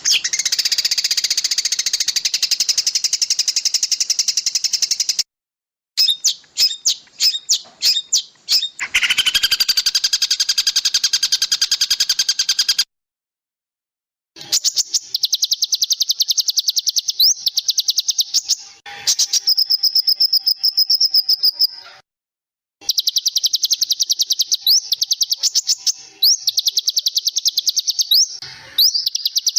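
Small songbirds singing fast, high-pitched trills and chattering phrases, with a few quick rising whistles in the later part. The song cuts off abruptly into brief silences about five, thirteen and twenty-two seconds in.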